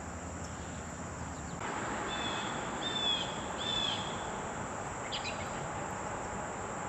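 Outdoor creek ambience: a steady hiss, with a bird giving a few short, repeated chirps over it.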